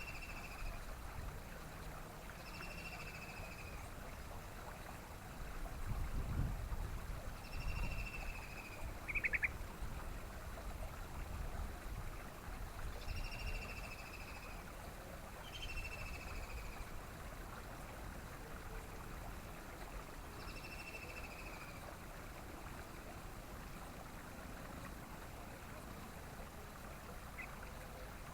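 Yellow-vented bulbul (trucukan) calling: short, clear, slightly falling whistled notes repeated every few seconds, with one quick rattling trill about a third of the way in, over a low rumble of outdoor noise.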